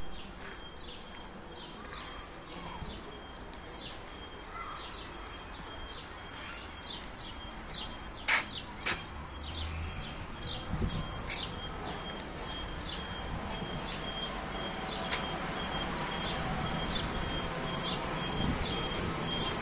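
A small bird chirping over and over, about two short high chirps a second. Two sharp clicks about eight seconds in stand out above it.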